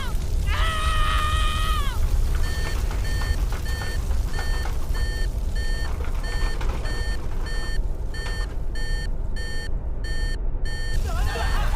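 Electronic warning alarm beeping steadily about twice a second over a low rumble, signalling the plane's engine failure and coming crash landing. It is preceded by a held, wailing tone that slides down at its end, and the beeping stops near the end.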